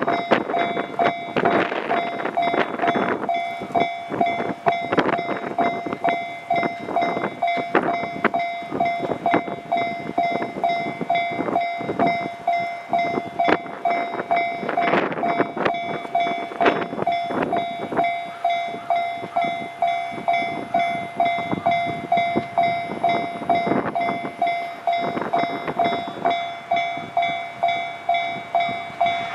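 Diesel-hauled freight train running, its wheels clicking over the rail joints in irregular clusters. Over it a steady ringing tone repeats about twice a second.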